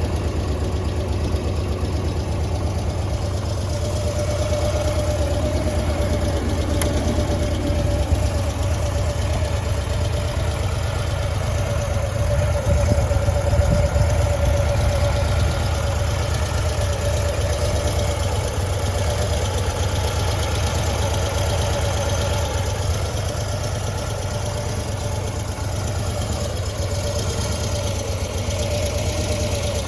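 Harley-Davidson Twin Cam 96 V-twin engine idling steadily through its stock mufflers.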